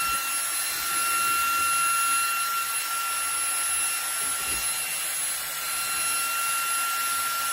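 Cordless vacuum running at max power: a steady high-pitched motor whine over rushing air.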